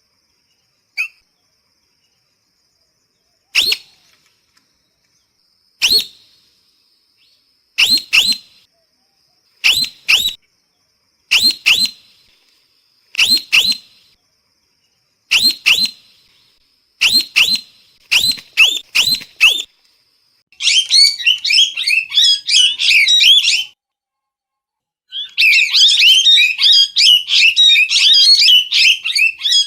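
Parrot calling: short, sharp high calls about every two seconds, singly or in quick pairs and triples, then from about twenty seconds in a dense, rapid run of squawking calls, broken once by a brief pause.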